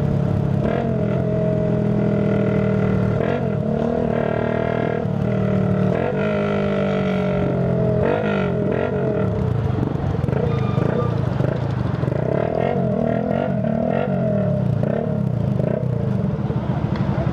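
Tuned Shineray Phoenix 50cc motorcycle engine running while riding, its pitch rising and falling repeatedly with throttle and gear changes.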